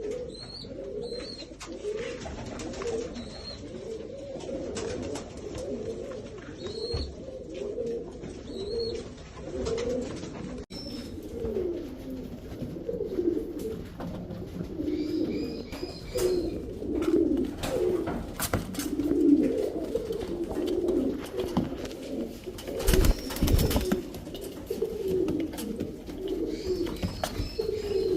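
Several fancy pigeons cooing at once, their low calls overlapping throughout, with faint high chirps from smaller birds now and then. There is a short burst of noise about two-thirds of the way in.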